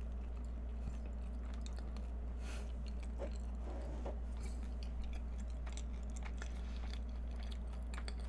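A person chewing a mouthful of soft custard egg tart with flaky pastry: faint, soft mouth sounds with small scattered clicks, over a steady low hum.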